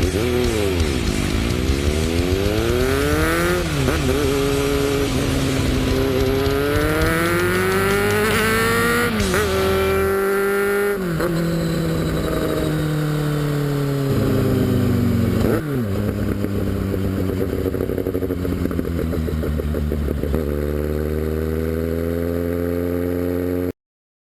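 Motorcycle-like engine sound revving up and down over and over, its pitch sweeping and dipping, then cutting off suddenly near the end.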